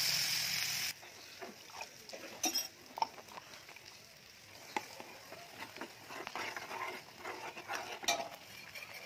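Ground peanut chutney sizzling in hot oil in a kadhai, loud at first and cutting off abruptly about a second in. Then a steel spoon clinks and scrapes against the pan as the chutney is stirred, with a few sharper knocks.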